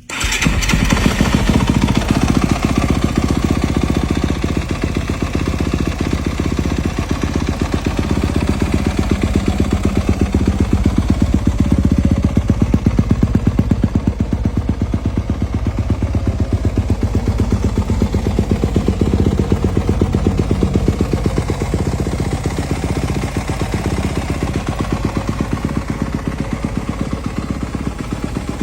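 Yamaha YZ250FX's 250 cc four-stroke single-cylinder engine running at a steady idle with a rapid, even firing beat. The sound comes in abruptly at the very start and eases off slightly in the last few seconds.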